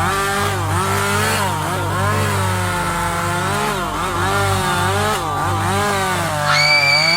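A chainsaw revving up and down again and again over a steady low drone. Near the end a high steady tone joins in.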